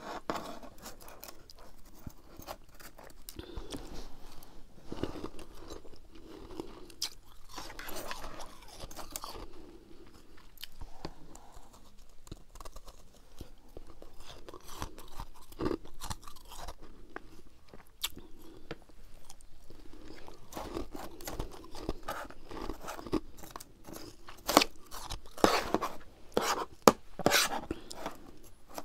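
Freezer frost being chewed and crunched close to a clip-on microphone: a run of short, crisp crunching bites, getting louder and sharper near the end.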